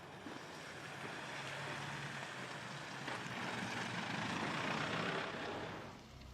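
A vehicle's engine and road noise swelling steadily over about five seconds, then dropping off sharply.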